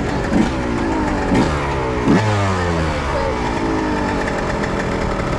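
Dirt bike engine running, with three quick throttle blips in the first couple of seconds, the revs falling back after each before it settles to a steady idle.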